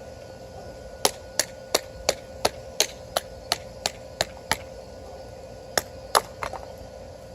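Wood splitting with a Mora Companion HD knife being batoned: a wooden baton taps the knife's spine in an even run of about eleven sharp knocks, about three a second. After a pause come two harder strikes and a short rattle.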